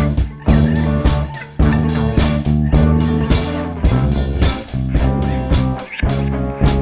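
Live band jamming instrumentally: electric guitar and bass guitar playing over drums with frequent cymbal hits.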